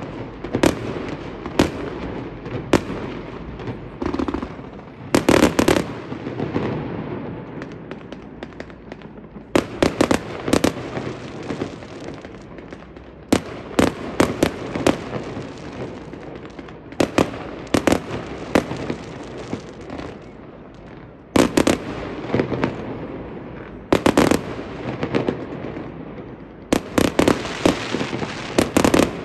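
Aerial fireworks going off in a continuous display: repeated sharp bangs, often in quick clusters of several, over a steady rumble of more distant bursts and crackle.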